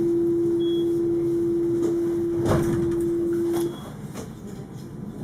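Steady single-pitch warning beep aboard an Alstom Citadis 402 tram, the kind sounded while the doors close. It holds for about four seconds over low running rumble, with a short knock partway through, and then cuts off.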